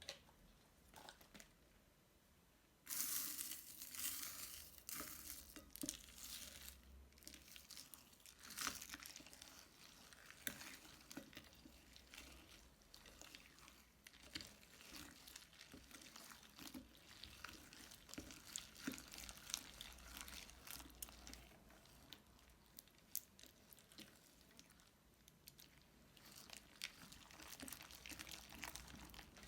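Crunchy slime being handled, with a close, dense run of small crackles and crinkles. It starts about three seconds in and keeps on unevenly, loudest at first and again near the nine-second mark.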